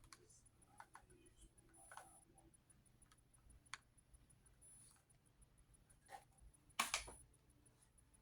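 Faint handling noises of a portable jump starter being lifted out of its box and packaging: scattered small clicks and taps, with a louder brief rustle about seven seconds in.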